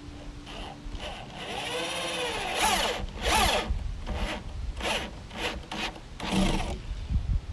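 Power drill driving screws into wood. The motor whines up in pitch and back down, then runs in several short trigger bursts.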